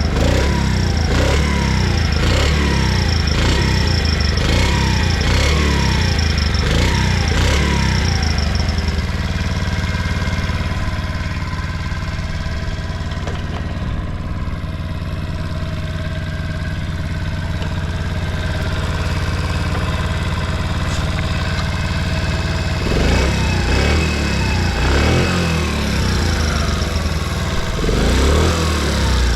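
Honda Motra's small four-stroke single-cylinder engine being revved in short throttle blips about once a second, then settling to a steady idle, with a few more blips near the end. It runs quietly with no abnormal noise, as the seller describes it.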